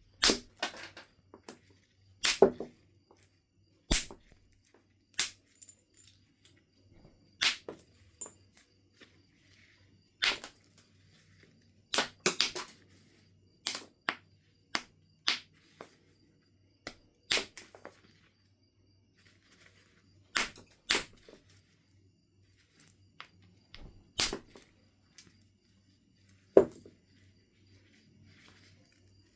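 Knife River Flint being knapped by percussion: a sharp crack of stone being struck every one to three seconds, with a few strikes coming in quick pairs.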